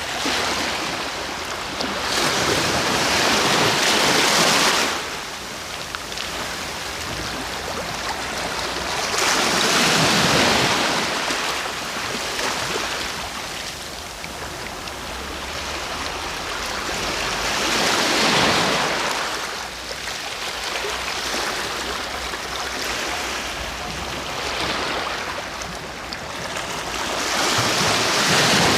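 Sea waves: a steady wash of surf that swells into a louder breaking surge four times, roughly every eight to nine seconds.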